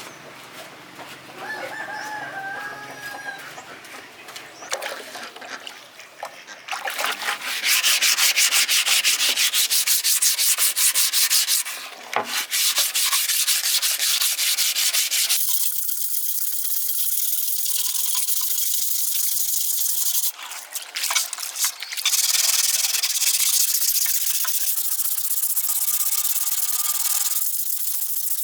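Sanding or abrasive scrubbing: a harsh, rasping noise of rapid strokes that sets in about seven seconds in and carries on with a few short breaks.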